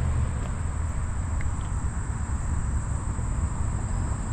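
Riding noise from a moving bicycle: a steady low rumble of wind on the microphone and tyres rolling on the path. Over it runs a continuous high-pitched whine.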